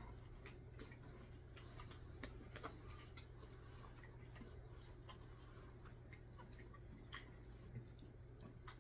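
Near silence: a low steady hum with faint, irregularly spaced small clicks of people quietly chewing and handling food.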